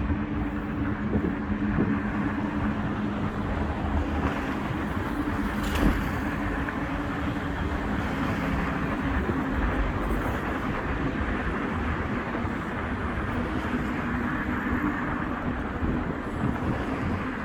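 Steady rumble of road traffic crossing a river bridge, with a low hum and one short click about six seconds in.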